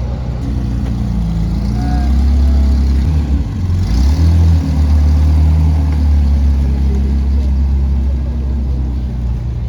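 Zenvo TSR-S's twin-supercharged V8 running at low revs with a deep, steady note. About three to four seconds in, the pitch briefly dips and then rises with a small blip of throttle before settling again.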